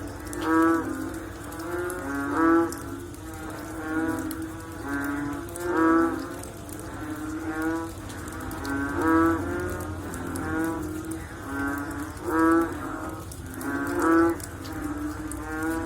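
Chorus of frogs calling after rain: repeated low croaks, each half a second to a second long, several overlapping, with a louder call about every second and a half.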